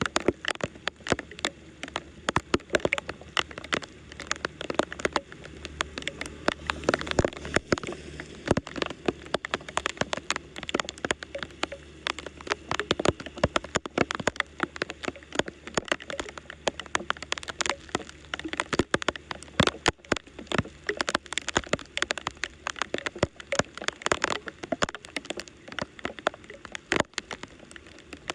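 Water pattering and splashing: a dense, irregular crackle of drops that keeps up throughout.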